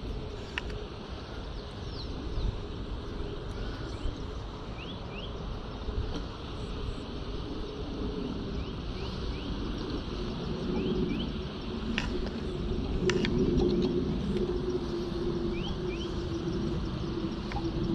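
Short, rising bird chirps repeated over a low rumble, with a steady low hum that grows louder in the second half. A couple of sharp clicks come about two-thirds of the way in.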